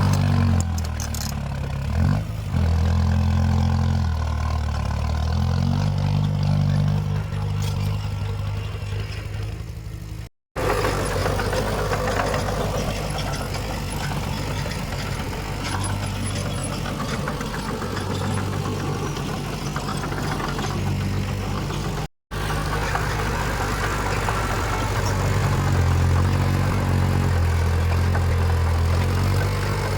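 Heavy diesel engines of earthmoving machinery running, the engine note rising and falling with load. The sound drops out for a moment twice, where the footage is cut.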